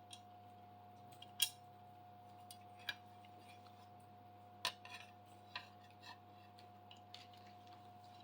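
Small metal hardware being handled during assembly: a few scattered, sharp clicks and clinks of screws, T-nuts and tools on the machine's metal parts, over a faint steady hum.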